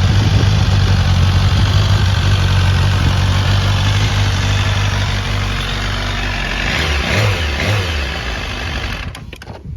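BMW S1000RR inline-four engine idling steadily, its pitch wavering briefly about seven seconds in, then cutting off near the end as the engine is switched off.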